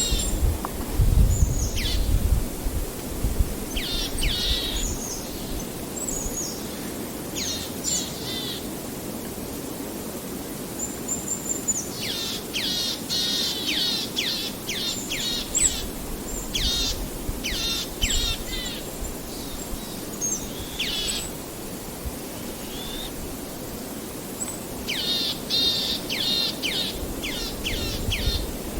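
Birds calling outdoors: runs of quick, high chirps that each sweep downward in pitch, coming in bursts with short gaps between them over a steady background hiss. A low rumble sounds in the first few seconds.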